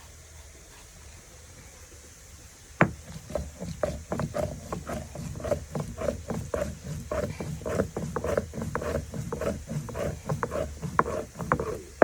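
Dry chilies, salt and onion being ground by hand for sambal: a steady run of short knocking and scraping strokes, two or three a second, which begins with one sharp knock about three seconds in after a quiet start.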